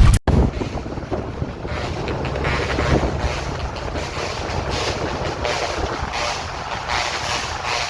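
Highway traffic: a passing truck's engine rumble and tyre noise, with wind buffeting the microphone.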